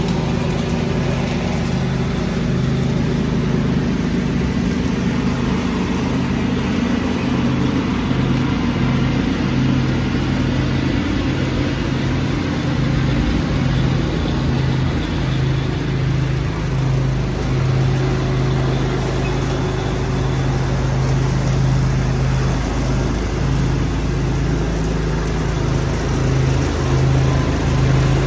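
Lawn tractor engine running steadily at constant speed while vacuuming up leaves, a continuous low hum with a noisy rush over it.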